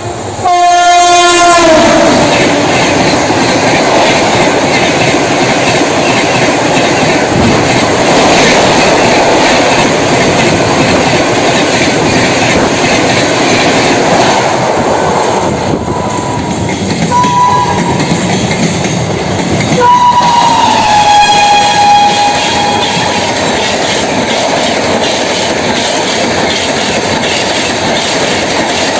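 An Indian Railways express train passing close by at speed. Its horn sounds at the start and drops in pitch as the locomotive goes by, followed by the long, loud rush and clatter of the coaches over the track. Short horn notes come again a little past halfway, the last one also falling in pitch.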